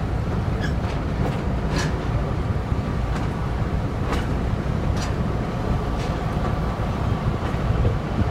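Train hauled by a Class 17 diesel locomotive running along the line, heard on board: a steady low rumble with sharp, unevenly spaced clicks from the wheels crossing rail joints.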